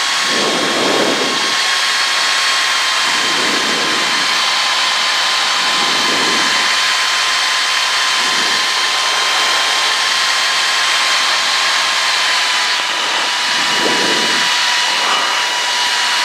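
Cessna 152's four-cylinder Lycoming engine and propeller droning steadily in flight, with a recurring swell in the low rumble every couple of seconds. The pitch dips slightly about twelve seconds in.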